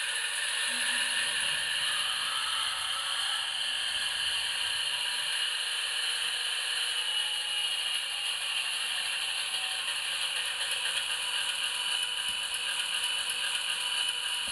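PIKO HO-scale model diesel locomotive running on track, a steady mechanical whir and rattle of motor and wheels.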